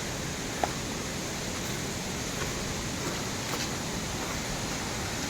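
Steady rush of falling water from the Marmala waterfall, an even noise with one short click about half a second in.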